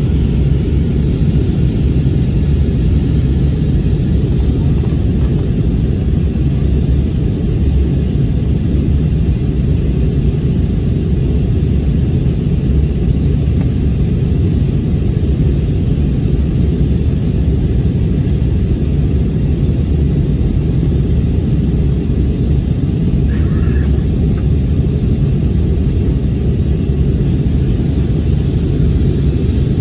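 Airbus A321 cabin noise: a steady, even rumble of engine and airflow. A short faint tone comes about 23 seconds in.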